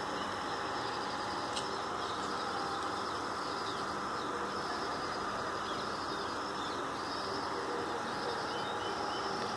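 Outdoor ambience: birds chirping in short repeated calls over a steady background hum, with one sharp click about a second and a half in.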